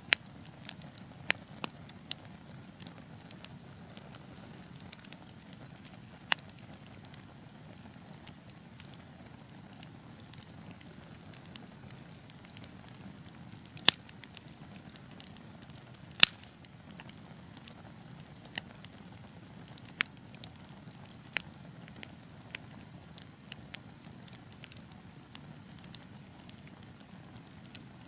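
Fireplace fire crackling: a steady low rush of flames with scattered sharp pops, the two loudest near the middle.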